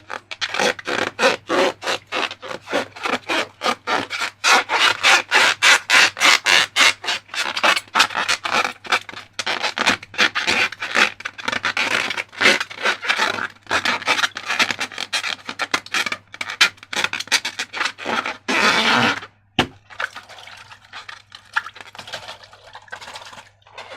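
Slime being worked by hand, with quick repeated rubbing and scraping strokes about three to four a second. The strokes stop about 18 seconds in with one longer scrape, followed by quieter, irregular rubbing.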